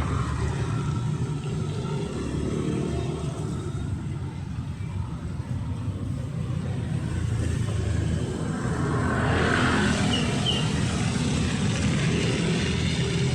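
Steady low rumble of street traffic, with a vehicle passing that rises into a louder hiss about nine seconds in. Two brief high chirps come just after it.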